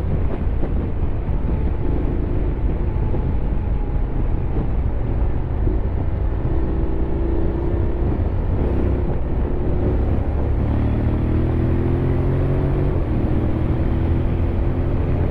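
Honda X-ADV 750's parallel-twin engine running under way, its pitch rising and falling several times as the throttle changes.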